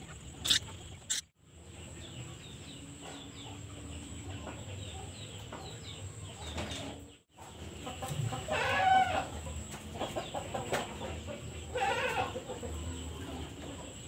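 Birds calling: scattered faint chirps, then two louder bursts of calls about eight and twelve seconds in, over a thin steady high tone. The sound drops out briefly twice.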